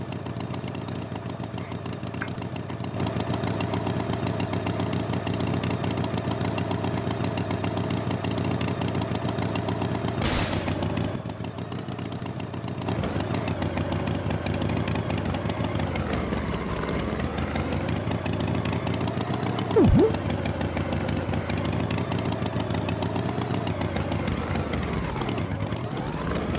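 Tractor engine running steadily, its pitch wavering up and down in the second half. A short hiss-like burst comes about ten seconds in, and a brief loud sliding tone near twenty seconds.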